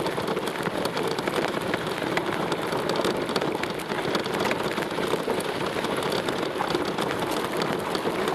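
Small lawn tractor engine running steadily, with a dense, rapid rattle.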